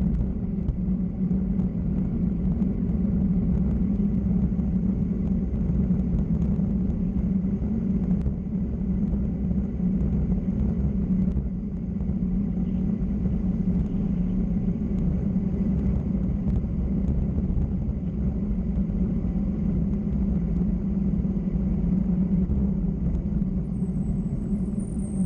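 Steady low rumble and drone of travel down a road, unchanging in level, with a faint high whine coming in near the end.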